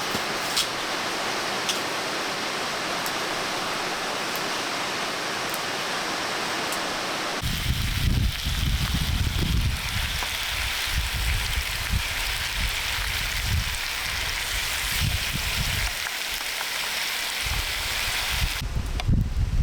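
Rushing water of a waterfall, a steady full hiss. About seven seconds in the sound changes: the hiss thins and low, irregular rumbling gusts come in under it.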